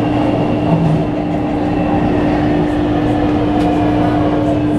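Train running: a steady rumbling noise with a constant low hum over it.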